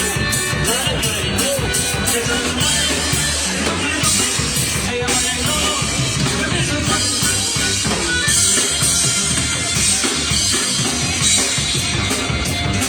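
A band playing an instrumental passage, a drum kit keeping the beat with bass drum and snare.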